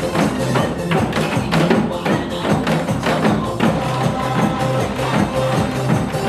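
Janggu drums struck in a brisk steady rhythm along with recorded backing music.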